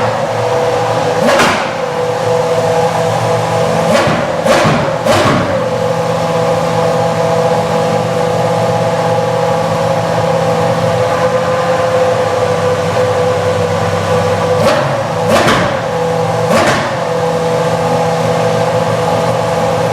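Toro Rosso STR1's 3.0-litre Cosworth V10 idling high and steady, with quick throttle blips: four in the first few seconds, then three more about three quarters of the way through.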